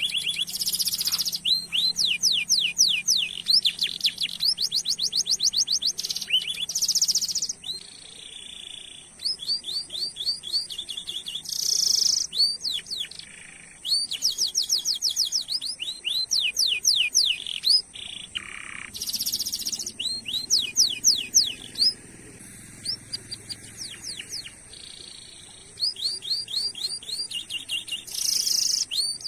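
Domestic canary singing a long song: phrases of fast, evenly repeated sweeping 'cuit cuit' notes alternate with short buzzing rolls, with a few brief pauses between phrases.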